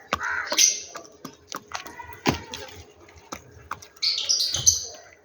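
Birds calling while feeding: a harsh call right at the start, then scattered sharp taps, and a quick run of high chirps about four seconds in.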